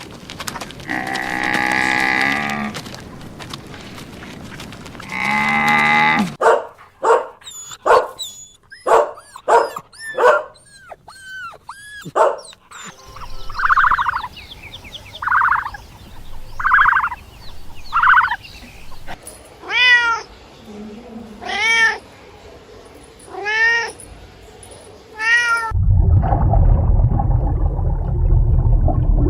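Cats meowing: a string of separate meows, some long and drawn out, others short and quick in a rapid run, with arching, rising-and-falling pitch. A louder rough, low noise takes over near the end.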